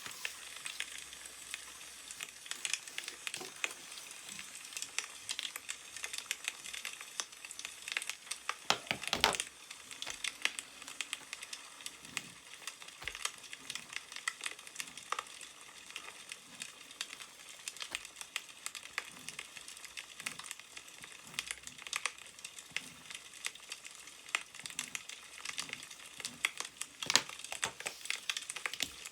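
Wood fire crackling, with dense, irregular sharp pops over a steady hiss and a louder flurry about nine seconds in. Newspaper pages rustle and crinkle now and then.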